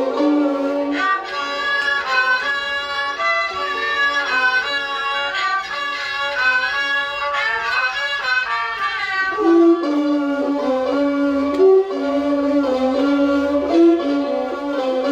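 Thai classical ensemble playing a homrong (overture), several pitched instruments carrying a melody that moves in steps from note to note, with no pause.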